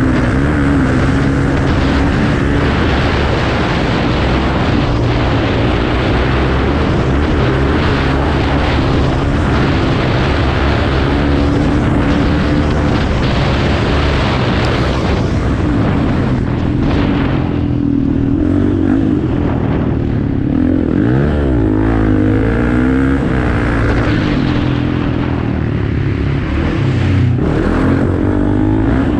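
Off-road motorcycle engines running and revving in a race, their pitch rising and falling as the riders work the throttle.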